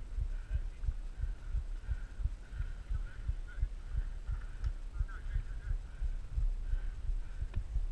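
Low, irregular thumping rumble, several thumps a second, with faint high chirping above it.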